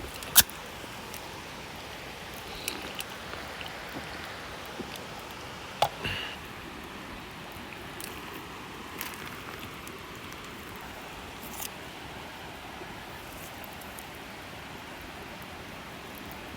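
Wood campfire crackling: a steady hiss with a few sharp pops, the loudest just after the start and another pair about six seconds in.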